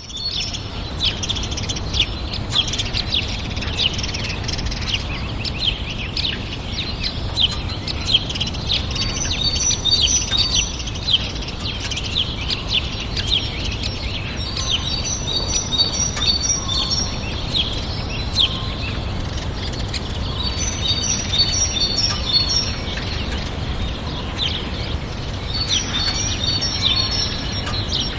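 Small birds chirping: a constant stream of quick high chirps, with a phrase of several rapid, evenly spaced high notes that comes back about every six seconds. A steady low rumble runs underneath.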